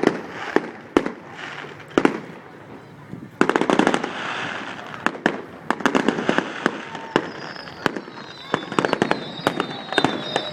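Fireworks display going off in a run of sharp bangs, with a dense burst of crackling about three and a half seconds in. From about seven seconds several falling whistles are heard over the bangs.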